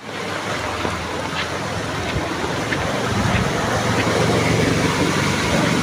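Steady rush of heavy rain and water noise, with a low motor hum underneath that grows stronger about halfway through.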